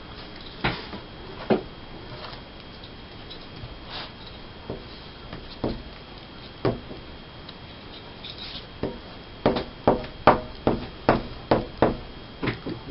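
Tabletop paper-crafting noises from gluing pictures into a glue book: a few separate light taps, then a quick run of about a dozen taps near the end, like a glue stick and hands pressing paper down.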